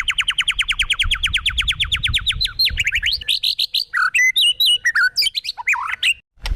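A songbird singing: a fast trill of repeated rising notes, then a jumble of varied chirping notes, breaking off abruptly near the end.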